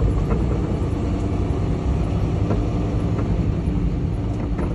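Semi truck's diesel engine running with a steady low rumble as the truck drives.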